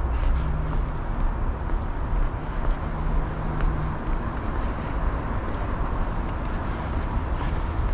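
Steady rumble of road traffic, with a faint hum that comes and goes.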